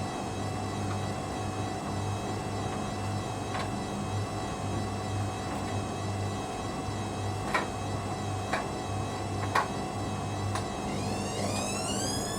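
Hoover Dynamic Next washing machine turning its drum at a low spin speed: a steady motor hum that pulses on and off, with a few sharp knocks a second or so apart. Near the end the motor's whine rises steadily in pitch as the spin ramps up toward full speed.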